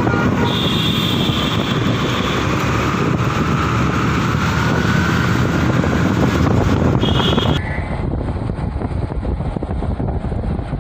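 Ford Mustang GT's V8 running on the road amid heavy wind noise. The sound changes abruptly about two-thirds of the way through, as at a cut, and goes on a little quieter.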